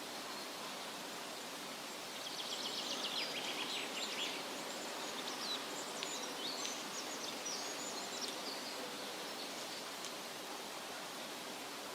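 Steady wind rustling through leaves, with birds chirping and trilling in quick runs of high notes from about two seconds in until near the end.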